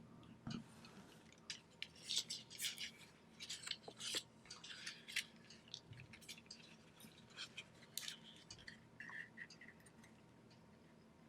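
Sheet of origami paper crackling and rustling as it is handled and creased by hand, in quick irregular crinkles that are busiest in the first few seconds and thin out later.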